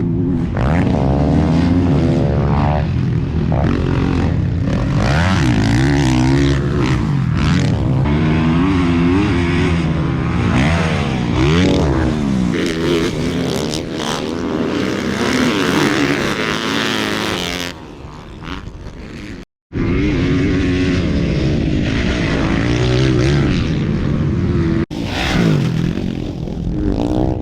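Motocross dirt bike engines revving up and down as they race, the pitch rising and falling over and over. The sound drops out abruptly about two-thirds of the way through and again briefly near the end.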